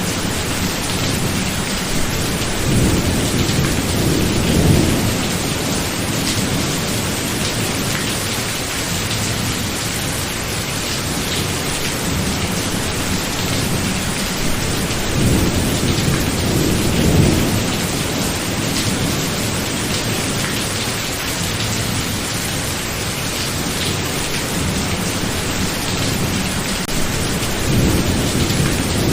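Steady heavy rain with low rolls of thunder rumbling in about every ten seconds: twice, then a third building near the end.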